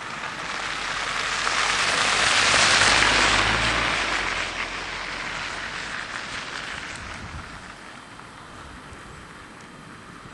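A vehicle passing by, its tyres hissing on a wet, snow-covered road, with a low engine hum. The sound builds to its loudest about three seconds in, then fades away.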